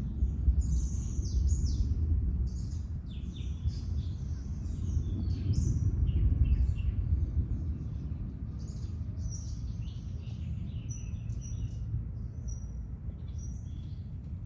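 Many birds chirping and whistling in a tropical jungle, with short calls overlapping one another throughout. A steady low rumble runs underneath.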